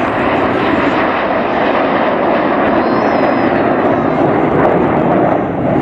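Loud, steady engine noise of a fixed-wing aircraft flying past.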